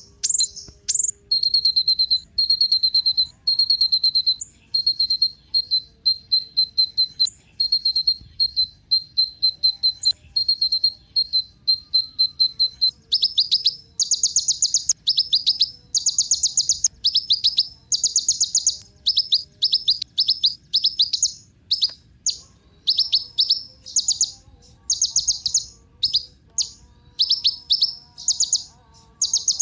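A 'kolibri ninja' sunbird singing: about two short, high trilled chirps a second at first, then, about halfway through, louder bursts of rapid chirps. This is a gacor (in-form) song recording, used as pancingan to set cage birds singing.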